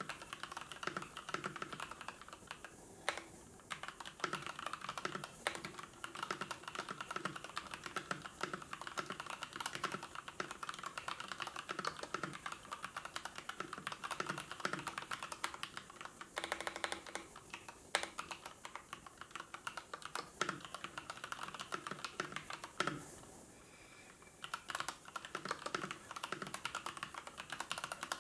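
Typing on a computer keyboard: a steady run of quick keystrokes, broken by a few short pauses, the longest about three-quarters of the way through.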